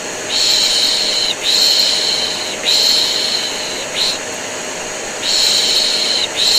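Rhythmic 'shh' shushing, about five long hisses of roughly a second each with a longer pause in the middle, over the steady running noise of a vacuum cleaner: white noise for soothing a colicky baby to sleep.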